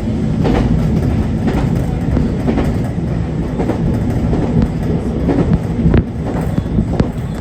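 JR Kyushu 811 series electric train running along the line, heard from inside the car: a steady low rumble and hum, with the wheels clacking over rail joints about once a second, clearest in the first few seconds and again near the end.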